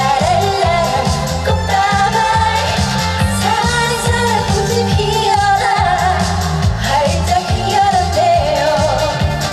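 A woman singing a Korean trot song live with band backing, her voice wavering in vibrato over a repeating bass line.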